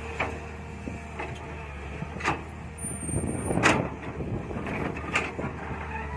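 Mini excavator engine running steadily, with several sharp knocks and scrapes from the digging, the loudest about midway.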